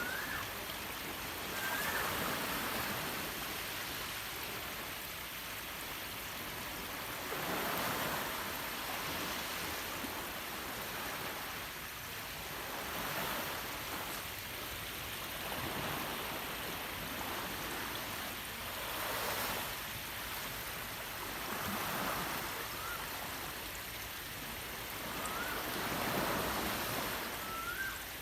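Sea waves washing onto a shore, swelling and easing every few seconds, with a bird giving short rising chirps a few times.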